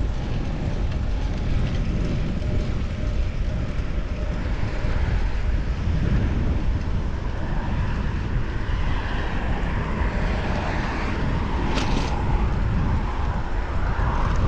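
Steady wind rumble on the microphone with road noise while riding a bicycle, swelling somewhat in the second half. A brief high-pitched sound comes about twelve seconds in.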